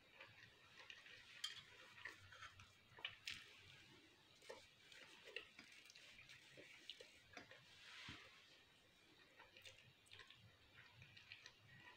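Faint chewing of pasta, with small wet mouth clicks and smacks coming irregularly.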